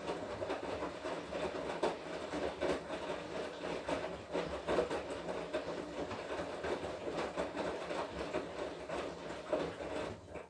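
Washing machine drum turning in a wash cycle, laundry tumbling inside with a steady churn and irregular knocks. It cuts off suddenly at the end, as the drum stops turning.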